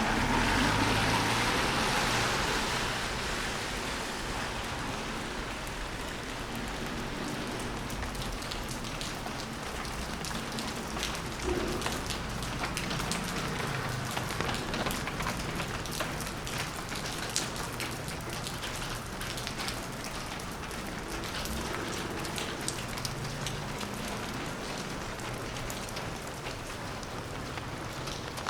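Steady rain falling, with a close patter of many small drop ticks. A louder hiss swells and fades over the first three seconds.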